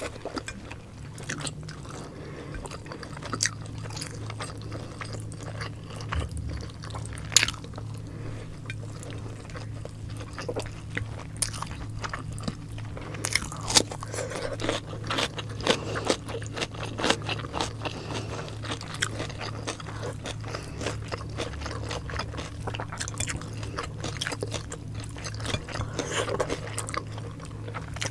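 Close-miked chewing and biting by two people eating pork adobo and rice with their hands, with many short wet and crunchy mouth clicks and a few sharper bites. A steady low hum runs underneath from about three seconds in.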